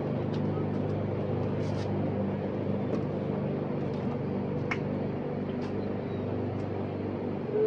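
Steady machine hum with several fixed pitches, like an idling engine, with a few faint clicks over it.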